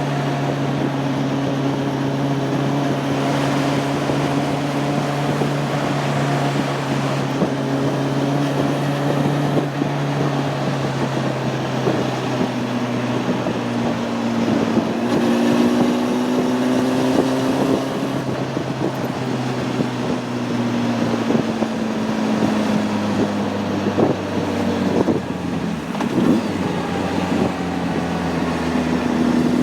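Honda CB600F Hornet's inline-four engine running on the road, holding a steady pitch for the first dozen seconds, then slowly dropping and rising again near the end. Wind noise on the microphone runs underneath.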